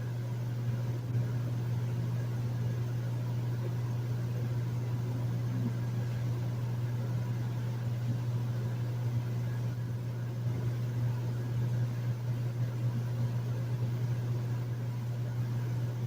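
Hotel room air conditioner running steadily: a low, even hum with a faint hiss of moving air over it.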